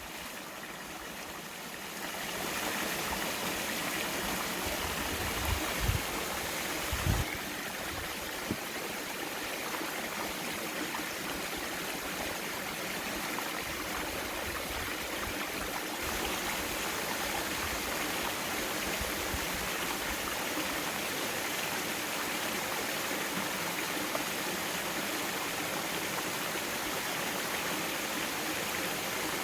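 Mountain valley stream flowing steadily over rocks, a little louder about two seconds in. A few brief low thumps a few seconds later.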